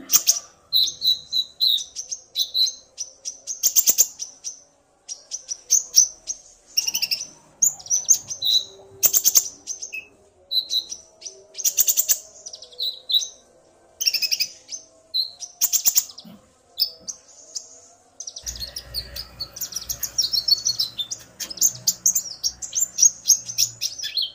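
Konin sunbirds (kolibri ninja), a male and a female, calling back and forth in quick bursts of high-pitched chirps and rapid trills; the male is singing hard, provoked by the female's calls.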